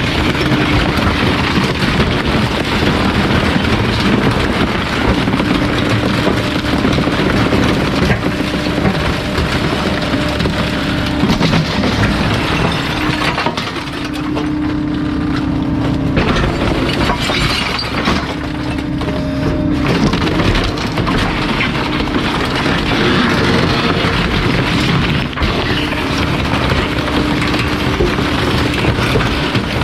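Bulky-waste garbage truck's compactor crushing bulky items, with continuous cracking and breaking over the steady hum of its hydraulics. The hum drops out briefly a few times, about halfway through and again near two-thirds of the way in.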